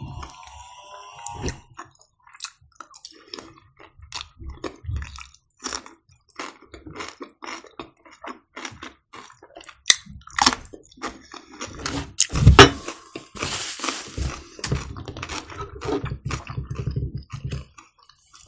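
Close-miked eating: a person biting into and chewing crisp food, mostly fresh cucumber, with wet chewing between sharp crunches. The loudest crunch comes about twelve seconds in.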